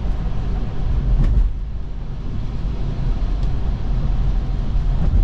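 Steady low rumble of road and tyre noise from a Tesla electric car driving on a snowy road, with a short click about a second in.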